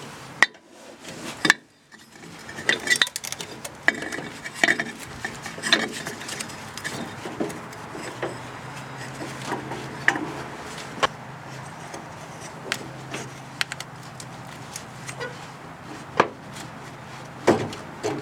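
Scattered metallic clinks and knocks of a lawn tractor's variable speed pulley and drive belts being handled and fitted into the frame by hand, with a few louder knocks.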